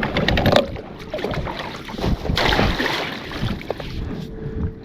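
Wind buffeting the microphone over water around a kayak, with a few clicks at the start and a brief rush of water noise about two and a half seconds in.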